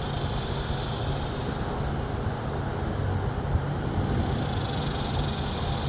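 Steady low mechanical hum, an even drone that holds unchanged throughout.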